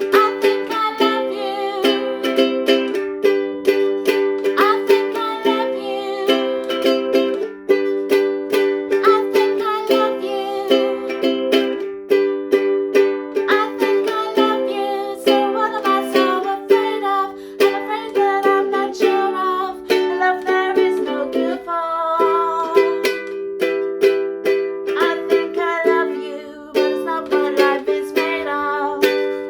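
Ukulele strummed in a steady rhythm, chords changing every second or so, with no singing.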